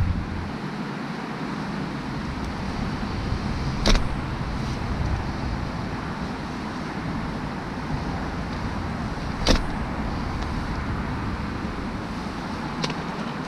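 Steady hiss of heavy rain and wind, with two sharp clicks about four and nine and a half seconds in and a fainter one near the end.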